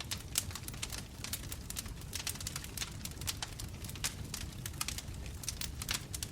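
Bonfire crackling: a rapid, irregular run of sharp pops and snaps over a low, steady rumble.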